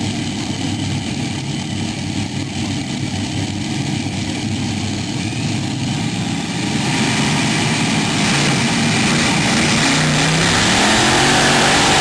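Tractor engine running steadily, then revving harder about seven seconds in, growing louder with its pitch climbing near the end.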